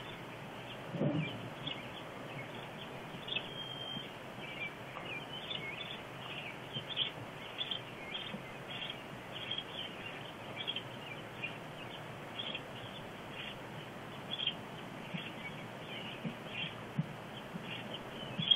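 Small birds chirping on and off over a steady outdoor hiss, with a dull low thump about a second in.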